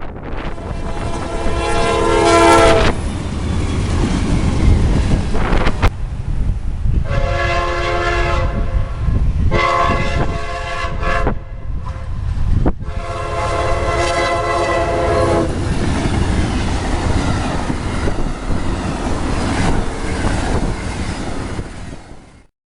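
Amtrak train's multi-note horn sounding four blasts for a grade crossing, the last held longest. Under the horn runs the steady rumble and clatter of the train passing.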